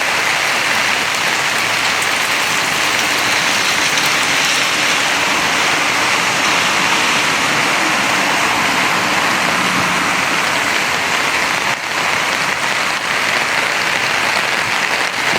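Steady rain falling on hard surfaces, an even hiss.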